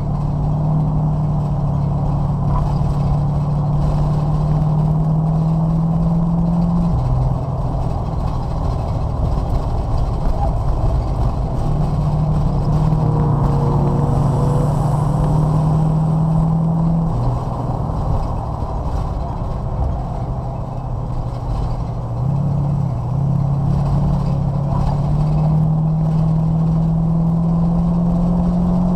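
A race car's engine heard from inside its cabin, pulling under steady throttle with the pitch slowly climbing, then dropping sharply about 7 and 17 seconds in as the driver lifts off for corners, and climbing again near the end, over constant road and tyre rumble.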